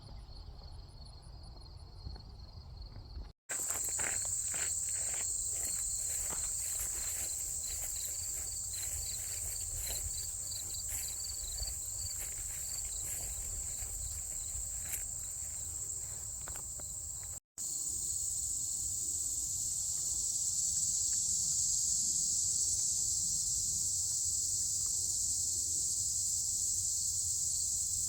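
Insects buzzing in a steady high-pitched drone, with a faster pulsing cricket-like trill over it. Irregular crunching steps or rustles come through in the first half. The sound cuts out briefly twice.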